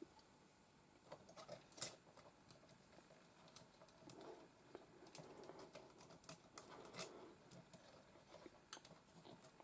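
Faint, scattered clicks and taps of plastic LEGO pieces being handled as the minifigure is fitted into the truck's opened cab, the sharpest click about two seconds in.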